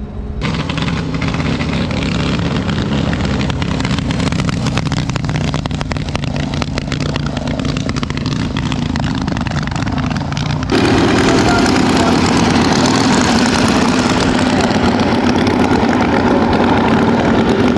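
Motorcycle engines running steadily. The sound jumps abruptly louder and fuller about two-thirds of the way through.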